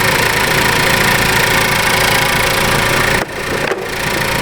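2014 Ford Focus 2.0-litre four-cylinder engine idling steadily with the A/C on while the compressor is not kicking on. The sound dips briefly about three seconds in.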